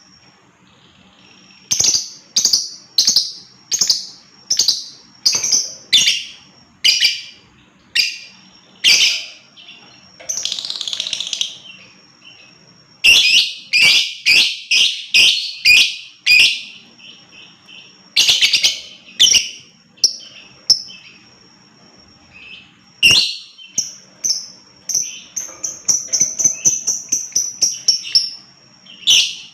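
Lovebird (Agapornis) giving loud, shrill chirping calls in a series, about one or two a second, breaking into faster runs of calls partway through and again near the end.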